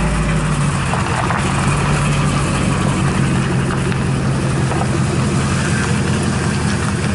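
A motor vehicle's engine running steadily, a constant low hum under a dense wash of noise.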